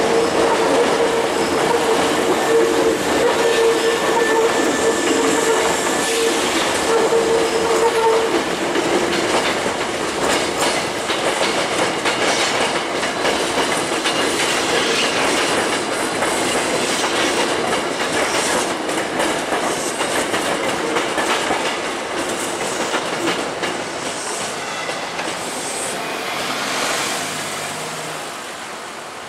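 Hankyu electric commuter trains running past at close range, with continuous wheel-on-rail noise. A steady whine sounds for the first eight seconds or so, and the noise fades over the last several seconds as a train draws away.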